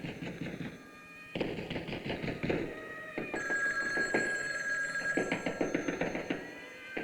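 Old-style electromechanical telephone bell ringing with a fast rattling clapper, in rings broken by short pauses.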